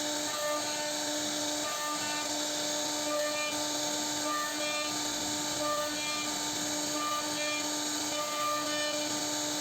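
CNC router spindle running steadily as its bit carves a wooden board: a continuous whine over a cutting hiss, with short higher tones coming and going as the bit moves through the wood.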